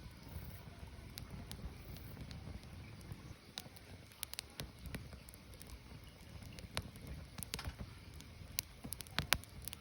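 Burning firewood crackling, with irregular sharp pops and snaps over a low rumble of the fire.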